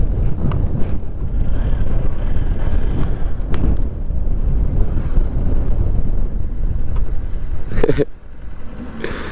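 Wind buffeting the microphone on a moving motorcycle, a loud, steady low rumble that drops off sharply about eight seconds in.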